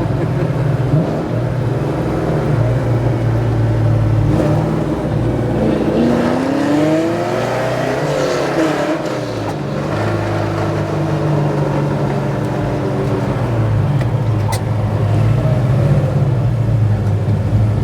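The naturally aspirated 502-cubic-inch V8 of a 1969 Chevelle SS Yenko tribute running hard under way. Its pitch climbs about a third of the way in, then falls back, before it settles into a steady drone.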